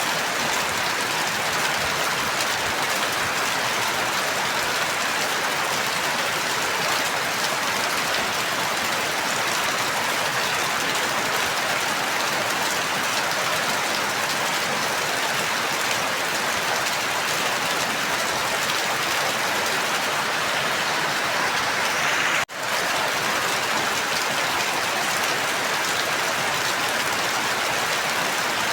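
Steady, even rain falling. It cuts out for a split second about three-quarters of the way through, then resumes unchanged.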